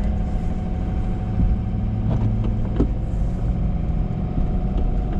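Ford F-350 pickup's engine running steadily with a low hum, with a few short clicks about two and three seconds in.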